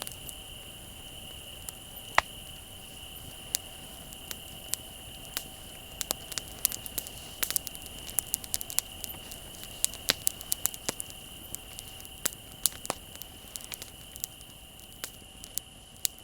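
Wood bonfire crackling, with irregular sharp pops and snaps that come thicker in the middle, over a steady high chirring of crickets.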